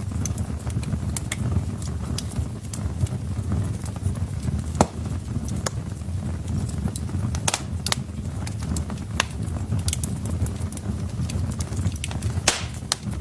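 Wood fire in a fireplace crackling: sharp, irregular pops and snaps of burning logs over a steady low rumble of the flames, with a longer, louder crackle near the end.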